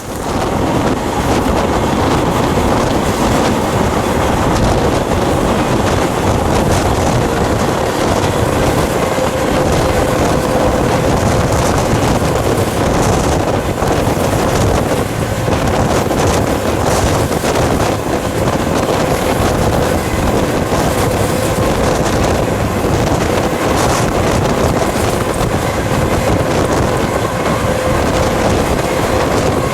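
Freight train rolling, heard from aboard one of its cars, with wind buffeting the microphone: a steady, loud rumble and rush of air.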